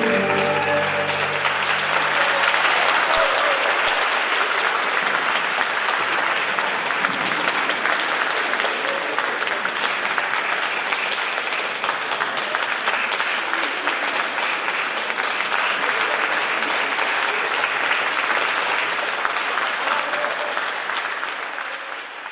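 An audience applauding steadily after a song, with the song's last held notes dying away in the first second or so. The applause fades out near the end.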